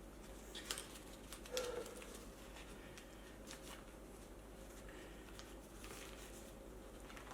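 Faint handling sounds of a scooter tyre being forced onto an electric unicycle's wheel rim by hand: two sharp clicks in the first two seconds, then light scraping and ticking.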